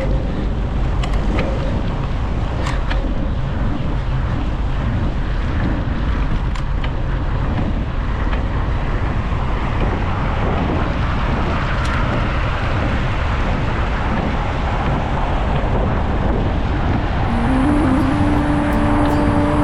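Steady city traffic noise with the hiss of wet roads, heard from a bicycle riding in the rain, over a heavy low rumble. About seventeen seconds in, a steady humming tone slides up and then holds.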